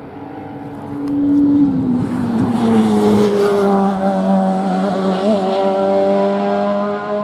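Race car engine at high revs going past the track: the engine note gets louder about a second in, drops in pitch, then holds a loud, steady note.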